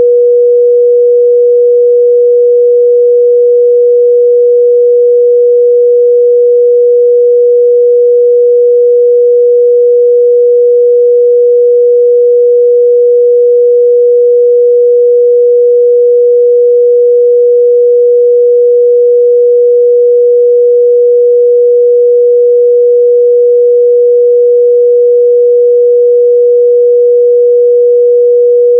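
A pure 484 Hz sine-wave test tone, held steady at one pitch and a constant, loud level, for checking speaker and headphone response in the midrange.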